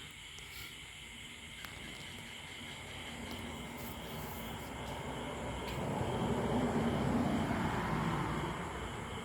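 A distant engine's rumble swells, loudest about seven seconds in, then fades as it passes. Behind it runs a steady high-pitched chorus of night insects.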